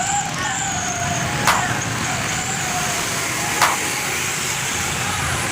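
Steady truck engine noise at a gathering of trucks, with faint voices and two sharp clicks about two seconds apart.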